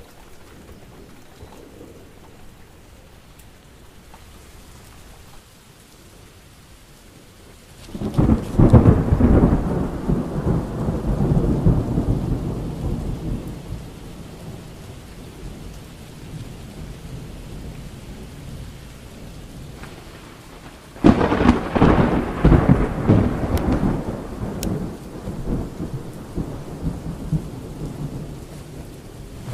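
Thunderstorm: steady rain with two rolls of thunder. One breaks suddenly about eight seconds in and another about twenty-one seconds in, each rumbling away over several seconds.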